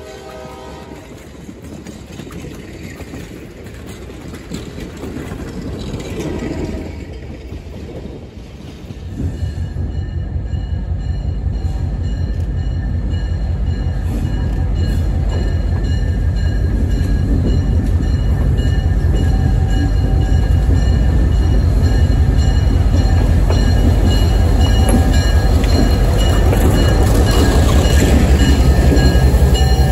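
Passenger train cars rolling past on the rails. Then a diesel locomotive's engine running with a low, pulsing rumble and a few high steady tones over it, growing steadily louder as the locomotive comes in close and passes.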